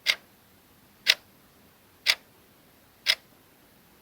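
Countdown-timer sound effect: a clock ticking once a second, four sharp ticks, marking the guessing time running down.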